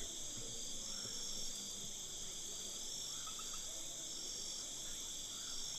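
Steady chorus of crickets or similar insects: several high-pitched trills layered at different pitches, running on unbroken.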